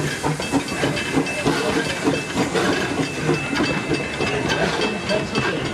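An 1873 Mason Machine Works articulated steam locomotive hissing steam as it runs, with the clatter of its train on the rails.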